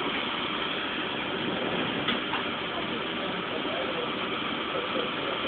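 Steady running hum of a stopped commuter train's onboard equipment, heard from the train, with a brief click about two seconds in.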